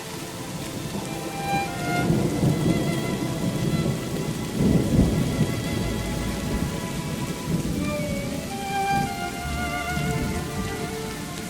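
Steady heavy rain with thunder rumbling, swelling loudest about five seconds in, over soft background music.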